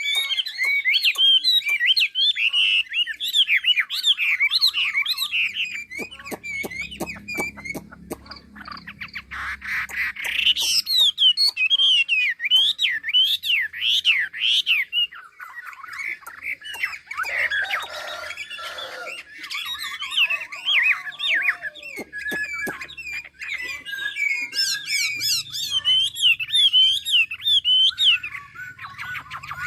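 A caged 'mi' songbird singing a long, varied song of rapid whistled notes and trills, with a few harsher notes mixed in. It pauses briefly twice.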